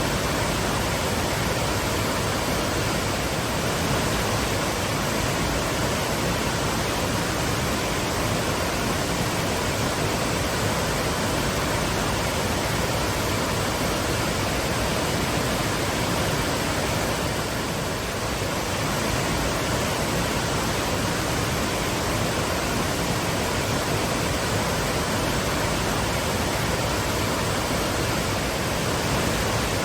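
Twin waterfalls pouring, a steady, even rush of falling water with no break.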